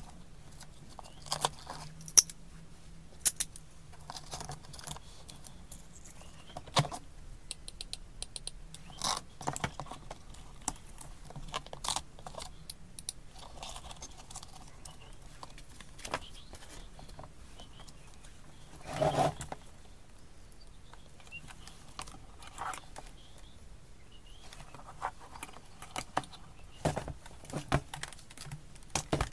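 Small metal hand tools from a tool kit being handled, with irregular clinks, clicks and knocks and a longer rattle about two thirds of the way through.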